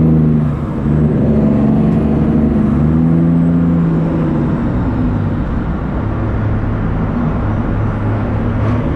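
Heavy truck's diesel engine running under way, its pitch shifting up and down.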